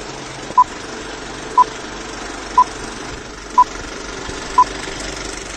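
Electronic countdown-style beeps, one a second, five at the same pitch, then a higher beep at the very end, over a steady hissing, rumbling noise.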